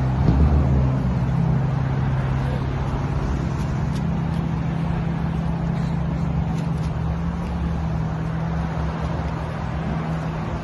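A motor running with a steady low drone under an even rushing hiss.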